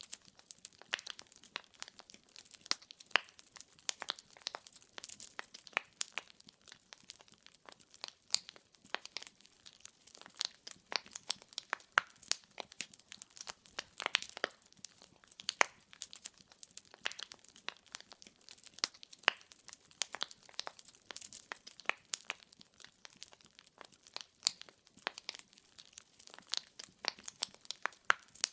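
Firewood burning in a fireplace, crackling and popping in dense, irregular snaps with a faint hiss of the flames beneath.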